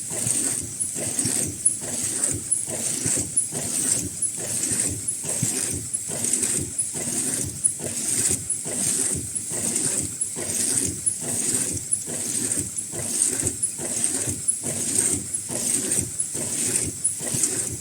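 High-speed N95 mask-making machine running with a rhythmic mechanical cycle repeating about one and a half times a second, under a steady high whine.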